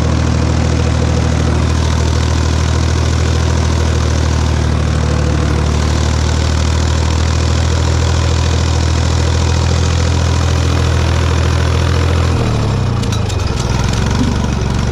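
Tractor diesel engine running at a steady speed, then its revs drop about twelve seconds in as the throttle is eased back.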